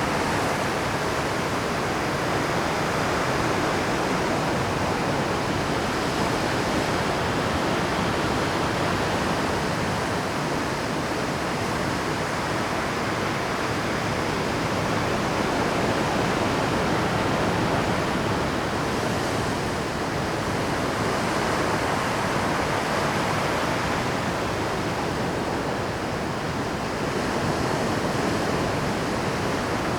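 Rough Pacific surf breaking on shore rocks at high tide: a continuous rush of crashing white water that rises and falls a little as each wave comes in.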